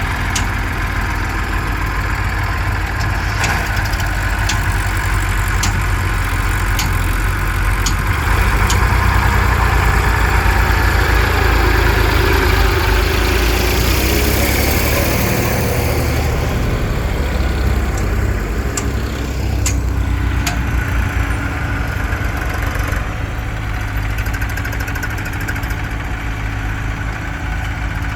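Heavy diesel engine running steadily, growing louder around the middle, with scattered sharp clicks and knocks over it.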